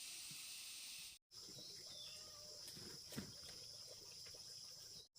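Steady high-pitched insect drone, faint, with the sound cutting out briefly about a second in and again near the end.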